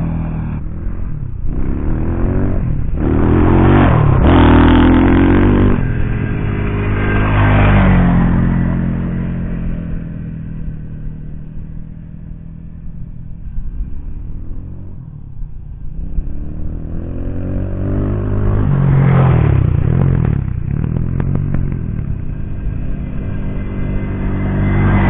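X-Pro Templar 250cc dirt bike engine being ridden, the revs climbing and dropping several times as it pulls through the gears. The engine is loudest in the first few seconds and again about three-quarters of the way through, and eases off in between.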